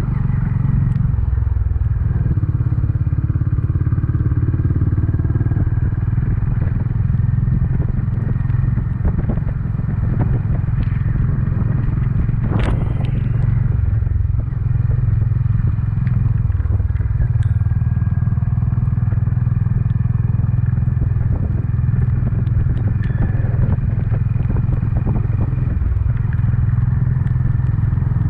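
Honda CB350's single-cylinder engine running steadily while the motorcycle is ridden, with one sharp click about halfway through.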